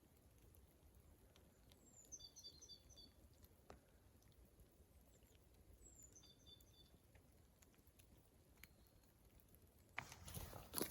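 A small bird calls twice in a quiet, still setting: each time a short falling slur runs into a quick cluster of high notes. Near the end a louder crunching, rustling noise starts suddenly.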